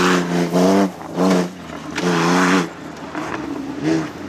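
Off-road 4x4's engine revving in bursts, the throttle opened and closed about four times, the last one brief.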